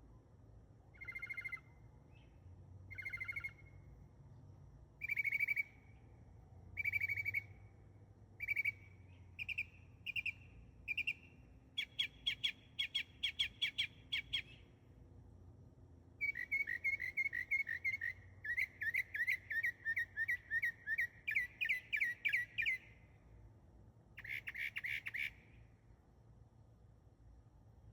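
A songbird singing: short high notes, spaced out at first and coming faster, then a rapid trill. After a pause comes a long run of quick repeated notes, and a brief buzzy phrase near the end.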